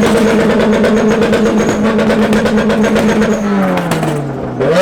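A car engine revved up and held at a steady high pitch for about three seconds, then dropping off and blipped up again near the end, with a rapid crackle over it.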